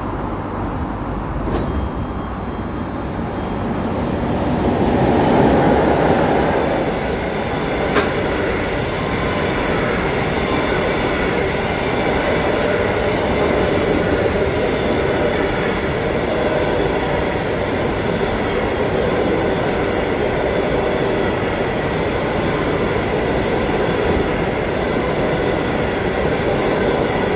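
Train running on the rails: a continuous rumble with faint steady high whines, swelling about five seconds in, with one sharp click about eight seconds in.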